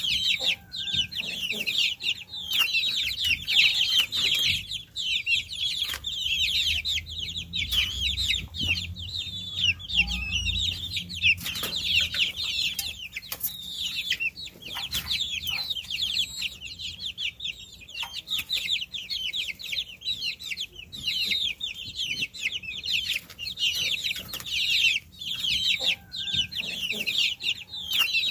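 Many baby chicks peeping at once: a dense, continuous chorus of short, high chirps, many falling in pitch. A faint low rumble sits under it in the middle.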